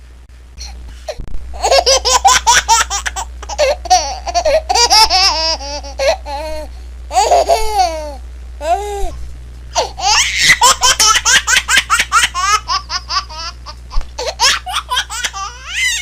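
Baby laughing in quick runs of short, high-pitched giggles, starting about a second in, pausing briefly around the middle and then laughing again.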